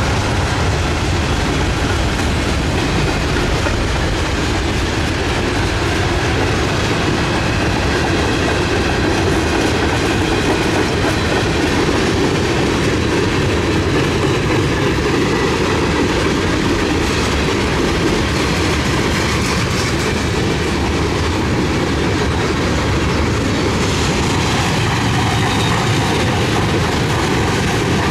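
Freight train cars rolling past at close range: a steady, loud noise of steel wheels running on the rails, keeping up evenly throughout.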